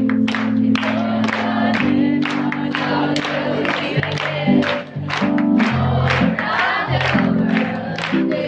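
Worship band and congregation singing a praise song together, with steady bass and keyboard chords and regular drum beats.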